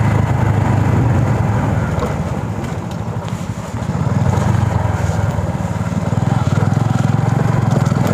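Hero Honda Passion's single-cylinder four-stroke engine running steadily while riding, with wind and road noise. The engine note drops for a moment about three seconds in, then picks back up.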